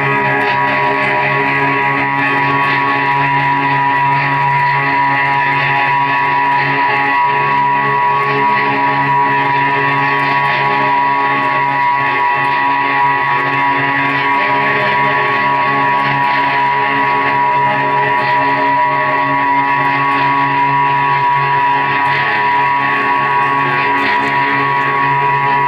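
Live guitar music: a sustained, droning wash of held guitar tones at a steady level, with no clear drum beat.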